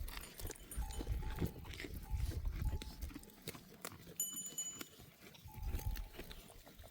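Bells on a flock of grazing sheep clinking and ringing, with one bell ringing out clearly about four seconds in, among scattered clicks and low rumbling bursts.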